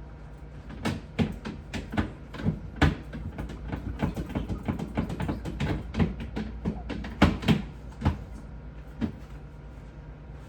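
Irregular knocks, clicks and clatter of refrigerator shelves, drawers and containers being handled and moved during cleaning, over a steady low hum.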